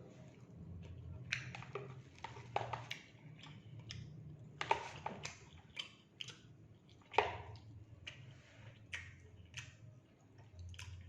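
Close-miked eating sounds of a person chewing fried rice and fried fish: irregular wet chewing and mouth clicks with short crunchy bursts, two of them louder about halfway through, over a faint low hum.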